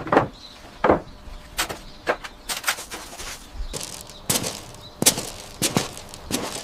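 Irregular knocks and thuds, about a dozen, with short scraping sounds between them, from tools and materials being handled during building work.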